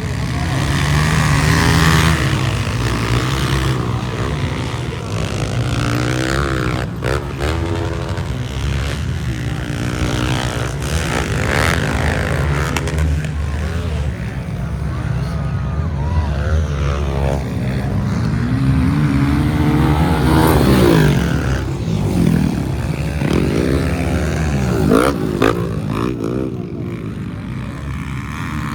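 Motocross dirt bike engines racing, revving up and down over and over as the throttle opens and closes, with more than one bike sounding at once.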